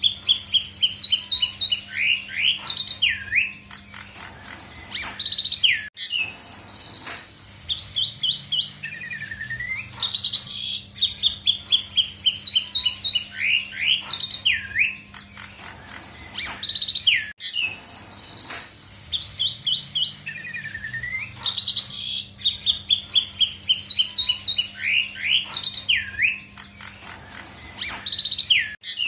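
Asian pied starling (jalak suren) singing loud, varied song full of mimicked phrases: rapid runs of short whistled notes and rising-and-falling calls. The same sequence of phrases comes round again about every eleven seconds.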